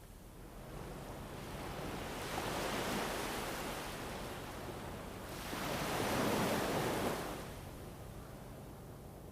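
Wind rushing in gusts, swelling twice, with the second gust about six seconds in the loudest, then easing back to a steady hush.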